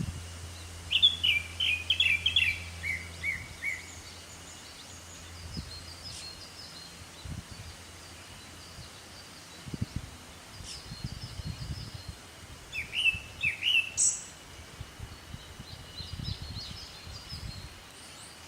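Japanese thrush singing: a quick run of clear notes stepping down in pitch about a second in, and a second phrase about two-thirds of the way through that ends on a sharp high note. Fainter, higher chirps of other birds fill the gaps, with low thumps of handling noise.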